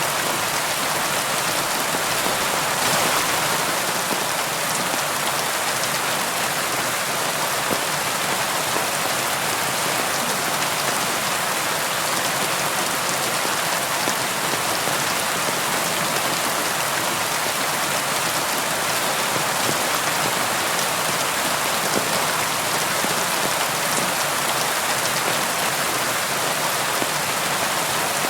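Steady rainfall: a dense, even hiss of raindrops with a few single drops standing out as small clicks.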